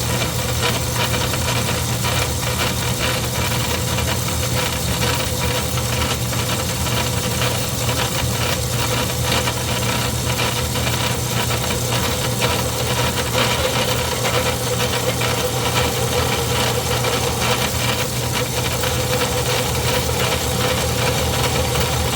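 Craftsman 109 metal lathe running steadily, a low hum with a constant light rattle, as its carbide-tipped tool turns a metal part.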